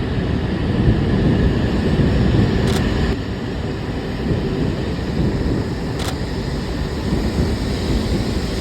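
Steady running rumble and rush of an E2 series Shinkansen at speed, heard from inside the carriage, with two faint clicks about three and six seconds in.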